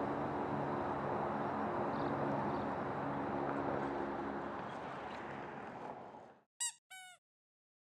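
Steady outdoor background rumble and hiss with a low engine-like hum, like street traffic, fading out over the last couple of seconds. Just after it fades come two short, high-pitched calls, each falling in pitch.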